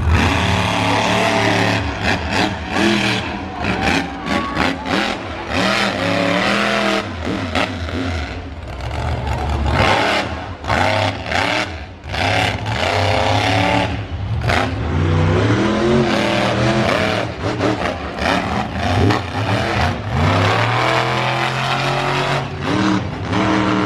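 Monster truck engine revving hard and easing off again and again, its pitch rising and falling with the throttle.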